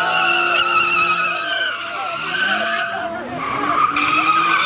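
Car tyres squealing steadily under wheelspin as a car does donuts, with its engine revving up again and again underneath.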